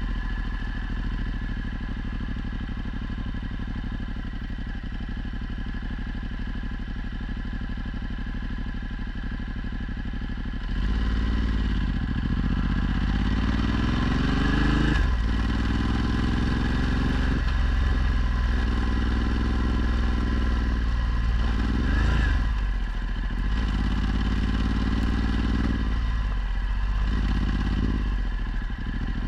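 Ducati Multistrada 1260's V-twin engine through a Termignoni exhaust, running steadily for about ten seconds, then accelerating hard several times, its pitch climbing and dropping back with each gear change.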